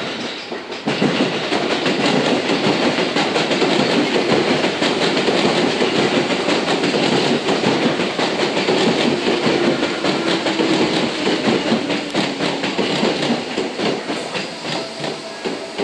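Electric train cars rolling past close by, wheels clattering over rail joints, starting abruptly about a second in and easing off near the end.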